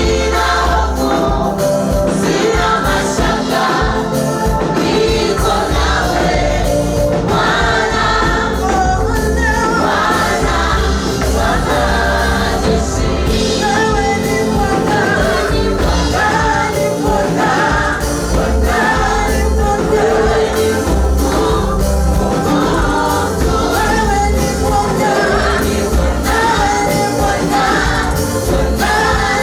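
Choir singing gospel praise music with steady instrumental backing and a bass beat.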